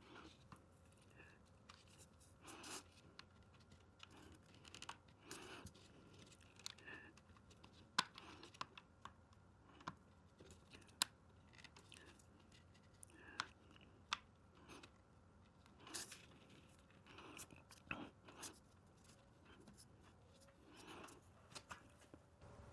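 Faint, scattered small clicks and rustles of hands fitting plastic insulating rail joiners onto the rail ends of dual-gauge model railroad track.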